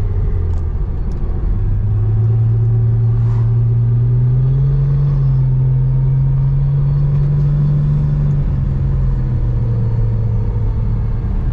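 BMW N54 3.0-litre straight-six engine running at a light-throttle cruise, a steady drone whose pitch rises a little about four seconds in and falls back after about eight seconds.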